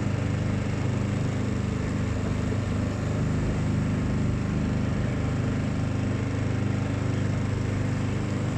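Small motor boat's engine running steadily at a constant low speed, a continuous even hum.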